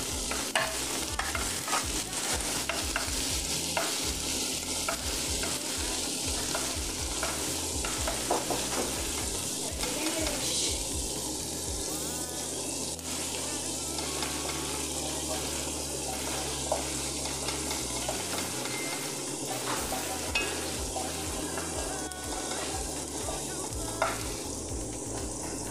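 Diced tomato, sliced onion and whole spices sizzling as they fry in a nonstick wok, stirred with a wooden spatula that scrapes and taps the pan many times.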